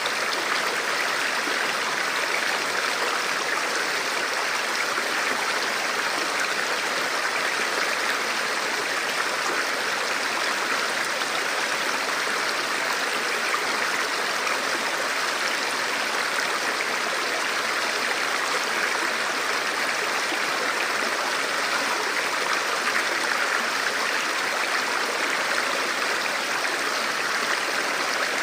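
River water flowing steadily, an even rushing that does not change.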